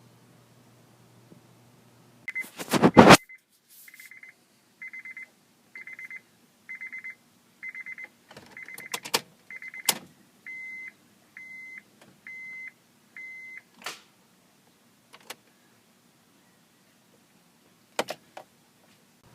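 A short, loud clatter, then an electronic beeper sounding about a dozen short, steady beeps, a little under a second apart. Sharp clicks fall among the beeps, and a few more come after them.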